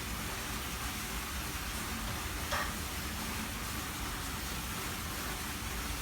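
Steady hiss of background noise, broken once by a short sharp sound about two and a half seconds in.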